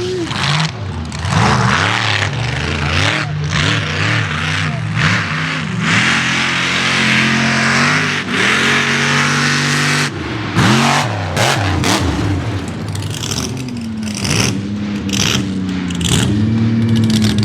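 Mega mud truck engines revving hard, their pitch climbing and dropping again and again, over a thick rushing hiss.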